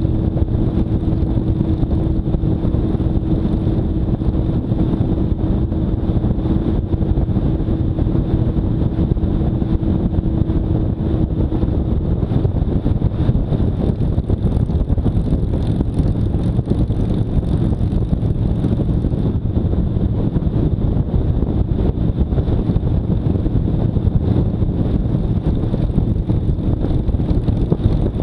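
Motorcycle being ridden at a steady speed: the engine running under wind noise on the camera microphone, with a steady engine note that fades about twelve seconds in.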